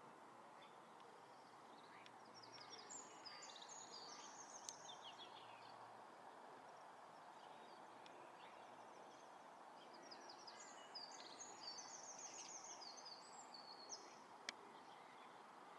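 A small songbird singing twice, each phrase a rapid run of high chirping notes lasting about three seconds, over a faint, steady background hiss. A single sharp click is heard near the end.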